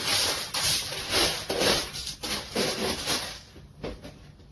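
Litter pellets rattling and rustling in irregular strokes as they are spread across the plastic tray of a litter box. The strokes stop about three and a half seconds in, followed by a single light knock.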